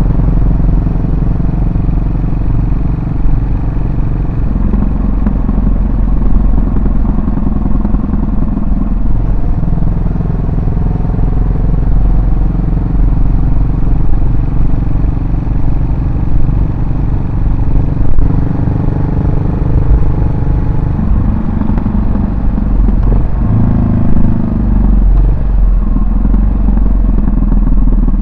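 Yamaha SR400's air-cooled single-cylinder four-stroke engine and exhaust running while the bike is ridden. Engine speed rises and falls several times as the rider accelerates and changes speed.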